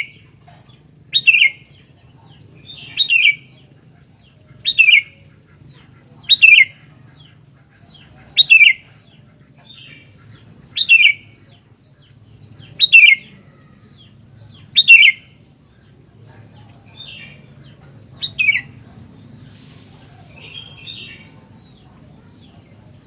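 Sooty-headed bulbul (kutilang) calling: a sharp, short, loud note repeated about every two seconds, nine or so times, then a few fainter notes in the last several seconds.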